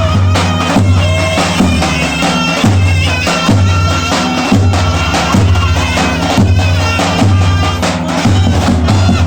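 Loud traditional folk music: a shrill, reedy wind melody over a heavy drum beat of about one beat a second.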